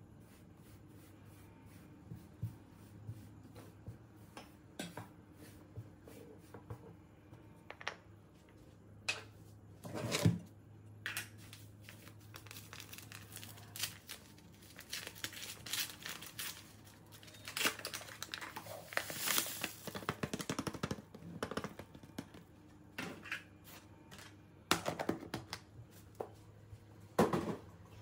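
Scattered knocks and clicks of things being handled, with a longer stretch of crinkling and rustling in the middle, over a low steady hum that stops about halfway through.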